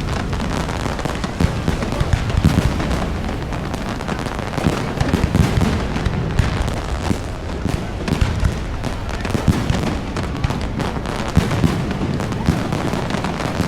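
Fireworks display: a dense, continuous run of booms and sharp cracks, one burst after another, over a steady low rumble.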